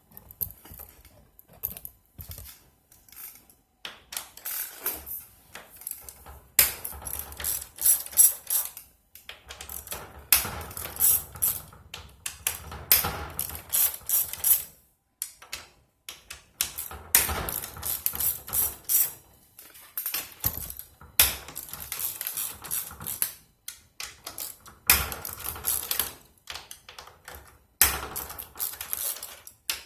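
Hand ratchet clicking in repeated bursts of a second or two, loosening and unthreading the bolts that hold a Nissan Leaf battery module stack together.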